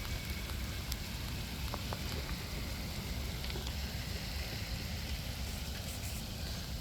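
Steady rain falling in a storm: an even hiss with a few scattered ticks of drops striking, over a low rumble.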